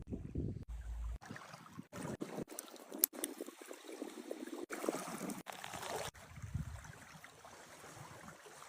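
Water trickling and splashing, broken off and resumed abruptly several times.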